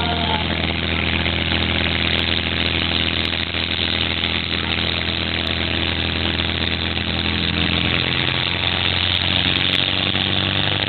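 An engine idling steadily under an even rushing hiss, its low hum shifting slightly about eight seconds in.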